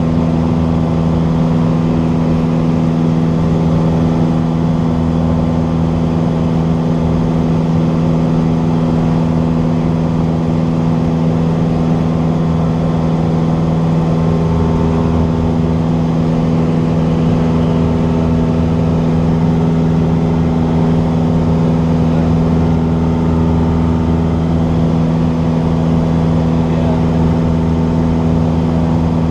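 Cessna 172's piston engine and propeller running at a steady, unchanging speed, a constant drone.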